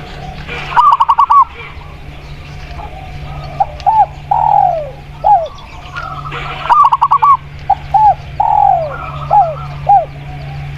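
Spotted dove and zebra dove cooing back and forth. A quick run of about five short coos comes twice, and single drawn-out or falling coos fill the gaps. A steady low hum runs underneath.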